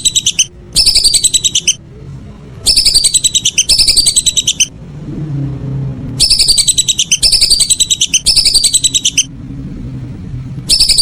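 Whistling ducks calling: shrill whistled phrases of rapid notes, each about a second long and falling in pitch, coming singly or two or three in a row with short pauses between.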